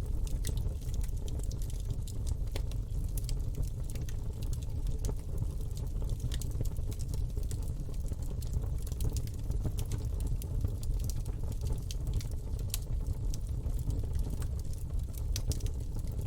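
Campfire burning, with irregular sharp crackles and pops over a steady low-pitched noise.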